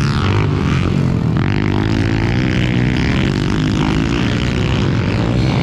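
Several pit bikes running at once, their small engines revving, with overlapping pitches rising and falling.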